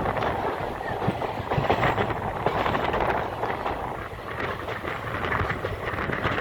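Train running on the rails, its wheels clattering steadily over the track above a low rumble.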